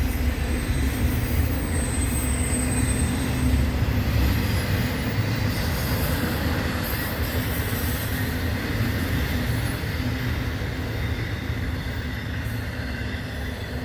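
BNSF intermodal freight cars rolling past on the main track: a steady rumble of steel wheels on rail, easing slightly toward the end as the rear of the train goes by. A faint high squeal comes in about two seconds in and lasts a second or two.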